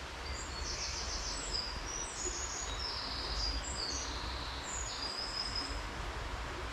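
A songbird singing a run of high notes that step down and up in pitch for about five seconds, over a steady low rumble.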